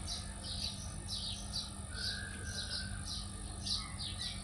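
A bird chirping over and over, about three short, high, falling chirps a second, over a low steady hum.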